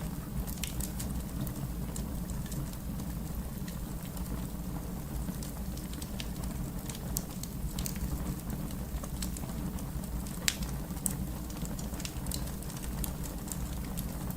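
Fire crackling: irregular sharp snaps and pops over a low steady rumble, with one louder pop about ten seconds in.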